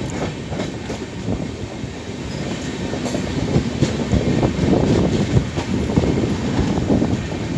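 Indian Railways passenger coaches running along the track, heard from an open coach doorway: a steady rumble of steel wheels on the rails with irregular clatter and knocks.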